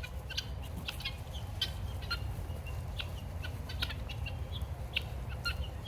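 A flock of guinea fowl giving short, scattered chirps and clucks, over a steady low rumble.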